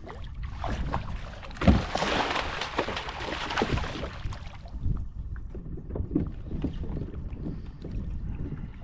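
Wind buffeting the microphone on a fishing kayak, with scattered knocks and clatter. A sharp knock about two seconds in is followed by a rushing hiss that swells for a few seconds and fades.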